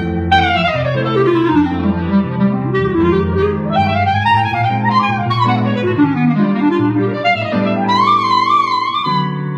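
Jazz clarinet solo over a small band with bass: quick falling runs and phrases, then a long high note held with vibrato near the end.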